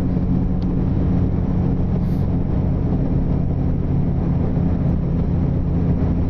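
Motorcycle engine running at a steady cruising speed, a constant low drone with a steady rush of wind and road noise.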